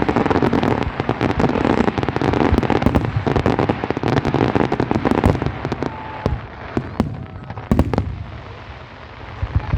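Fireworks display: a dense run of overlapping bangs and crackle that thins out after about six seconds into a few separate loud bangs, then builds again near the end.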